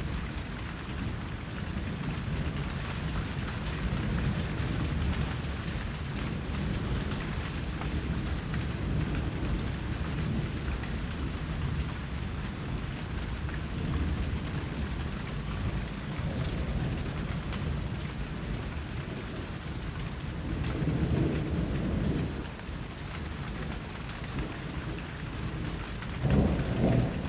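Steady rain, a constant hiss with a deep low rumble under it. The low rumble swells louder for a second or two about 21 seconds in and again near the end.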